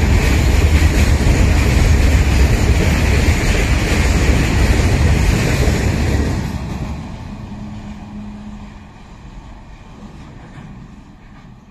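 Freight train's open wagons running past at speed: a loud, steady rumble and rattle of wheels on rail that drops sharply about six seconds in as the last wagons go by, then fades away as the train draws off.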